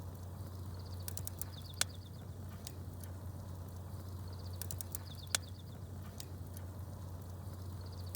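Wood fire crackling with a few sharp pops, the two loudest nearly two seconds and five seconds in. A small bird chirps in quick short runs three times, over a steady low hum.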